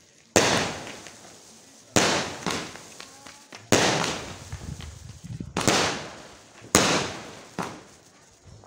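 Aerial fireworks going off: five sharp bangs about one to two seconds apart, each followed by a fading crackle as the burst spreads.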